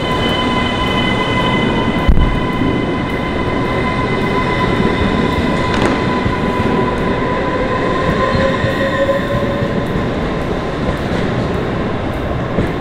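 Passenger train running past along a station platform: a steady rumble of wheels on rail under a high, steady whine, with one heavy thump about two seconds in.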